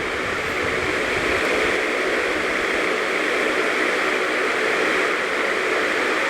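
Ceiling fan spinning at high speed: a steady rush of air with a faint motor hum under it, growing slightly louder over the first second or two and then holding steady.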